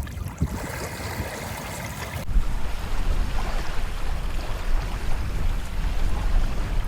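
Waves breaking on a beach with wind buffeting the microphone, a steady rushing noise with a heavy rumble underneath. It changes abruptly about two seconds in.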